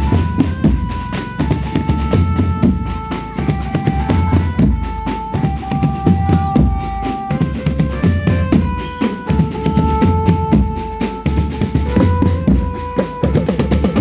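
Indonesian drum band playing: snare and bass drums beating a steady, busy rhythm under a melody of held notes that steps from pitch to pitch.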